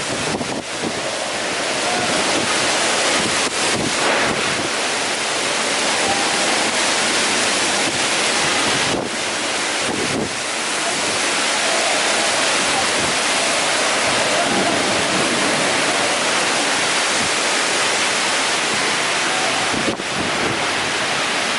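Heavy rain falling in strong wind: a steady, loud rush, with wind buffeting the microphone.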